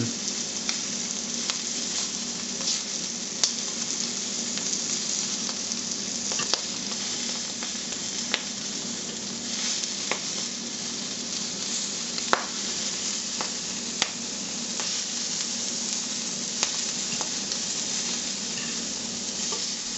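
Halved rabbit hearts sizzling steadily in a hot frying pan, with occasional sharp clicks of a fork against the pan as they are rolled over to brown.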